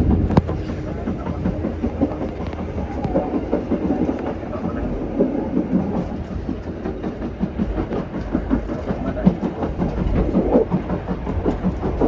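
Passenger train running along the track, a steady low rumble of wheels on rails with frequent irregular clicks and knocks from the running gear.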